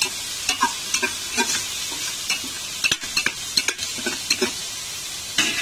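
Tomatoes, onions and green chillies sizzling in ghee in a pressure cooker pot while a slotted spatula stirs them, scraping against the pot in short, irregular strokes over a steady hiss. The wet tomatoes hitting the hot ghee keep the frying hissing.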